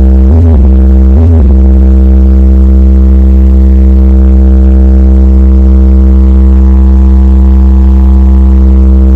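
Electronic music with very heavy bass, played at high volume through a competition car audio system. A wobbling bass pattern in the first second and a half gives way to a long held chord over a deep, steady bass drone.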